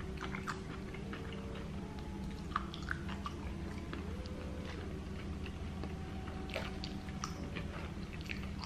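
Close-miked chewing of a mouthful of burrito: soft wet clicks and smacks scattered throughout, over a steady low hum.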